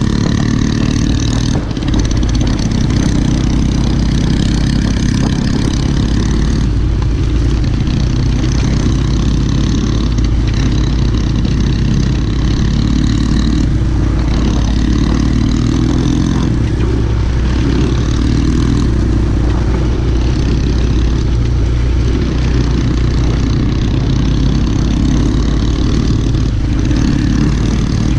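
Pit bike engine running steadily while riding, with small rises and falls in revs.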